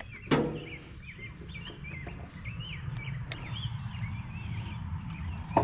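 Small birds chirping over and over with short, quick notes above a steady low rumble, with one brief louder sound just after the start.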